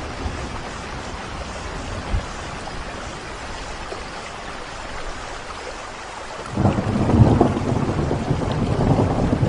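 Steady rainfall, with a roll of thunder breaking in about two-thirds of the way through and rumbling on.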